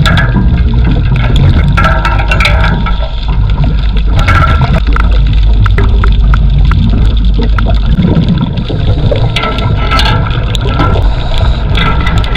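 Underwater water noise: a steady low rumble with bursts of gurgling bubbles every second or two.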